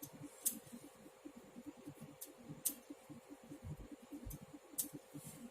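Knitting needles clicking against each other as a row is purled by hand: a few sharp, separate clicks over soft handling of the needles and yarn.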